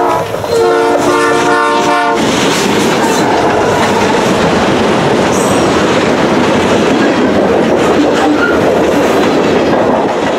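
CN freight locomotive horn sounding a chord of several notes. The tail of one blast is followed by a longer blast that stops about two seconds in. Then the two diesel locomotives, a GE C40-8W and an EMD SD70M-2, pass close by, and the freight cars roll past with a steady loud rumble and clatter of steel wheels on the rails.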